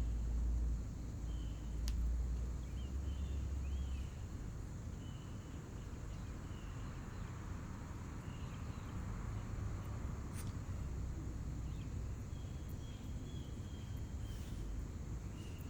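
Small birds chirping repeatedly in the background, short high calls some with quick pitch slides, over a steady low rumble, with a few faint clicks.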